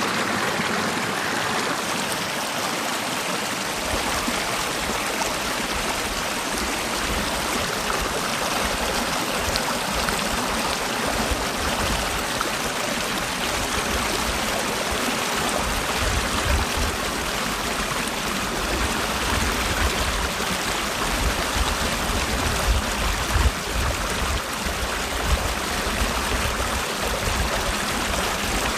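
Mountain valley stream flowing steadily, a constant even rush of water, with an uneven low rumble underneath from about four seconds in.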